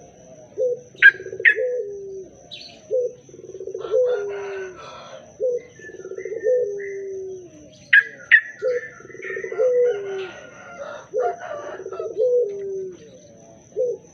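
Yellow-vented bulbul (trucuk) giving short, bubbly chirping phrases, over a low cooing call that repeats about once a second, sliding down in pitch each time. A faint steady high whine runs underneath.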